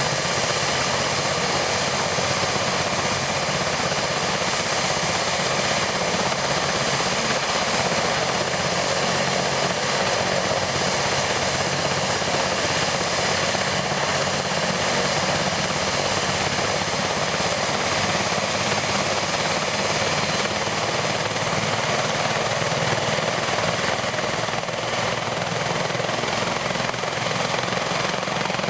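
BK117 twin-turbine helicopter running steadily, a constant turbine whine over the rotor noise.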